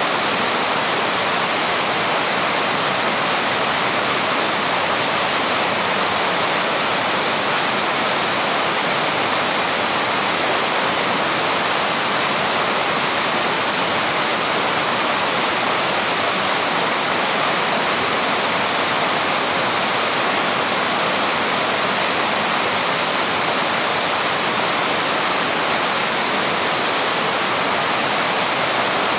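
Small waterfall rushing steadily, an even hiss of falling water with no breaks.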